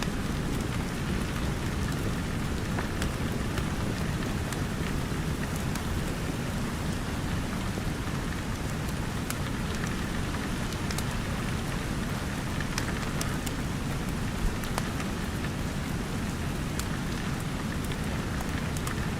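Steady rain hissing on a roof and windows, with a low rumble underneath and scattered sharp crackles and pops of a wood fire burning in a fireplace; one pop about three-quarters of the way through stands out.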